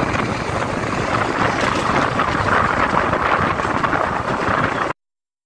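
Steady rushing running noise of a moving passenger train heard from on board, with wind buffeting the microphone. It cuts off suddenly about five seconds in.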